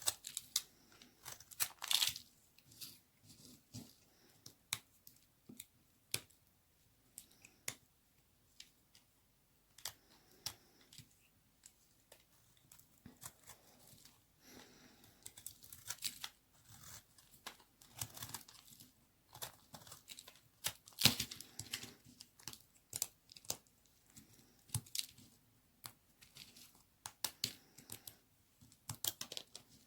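Knife cutting a bar of dry white baby soap: sharp crackles and snaps at uneven intervals, some running together into short scraping stretches.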